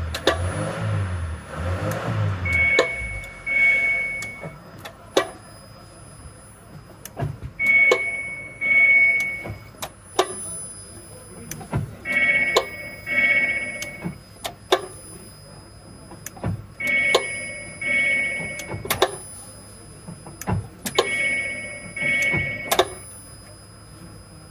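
2013 Nissan Leaf driven through repeated acceleration and braking, with sharp knocks recurring through the drive: a knock under load, the sign of a fault in the drivetrain or suspension. Pairs of short steady high tones come and go about every four to five seconds.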